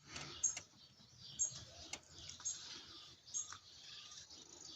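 A bird chirping, short high chirps about once a second, with a couple of sharp clicks in between.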